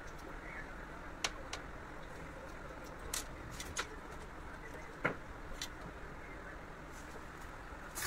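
A handful of short, light clicks and taps, spaced irregularly, over a steady background hum.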